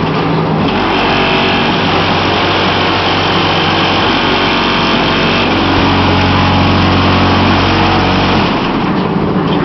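Columbia Model 22 concrete block machine running as it makes standard blocks: a loud, steady mechanical hum that sets in about a second in, grows deeper past the halfway mark and stops about a second before the end.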